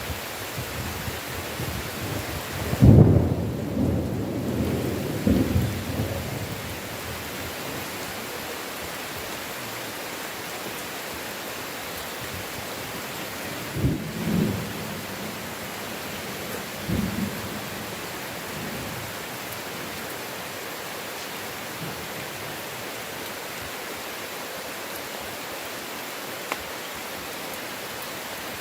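Steady heavy rain with thunder: a loud thunderclap and rolling rumble about three seconds in, then two shorter, fainter thunder rolls around the middle.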